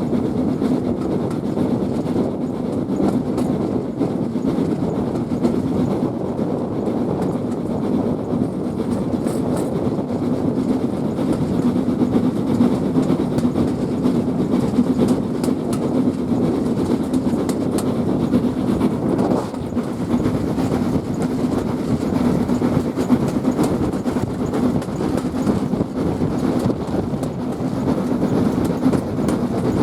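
Steam-hauled passenger train running along the track: a steady rumble and rattle of the carriages and wheels on the rails, with a slight dip about two-thirds of the way through.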